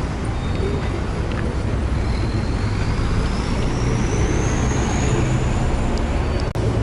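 Long-tail boat engine running steadily under way: a low, even drone with rushing water and wind noise. A faint high whine rises slowly in pitch through the middle.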